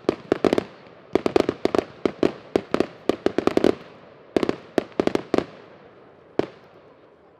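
New Year's fireworks going off as rapid series of sharp bangs, dense for the first half, then a shorter cluster, and a single bang near the end as it thins out.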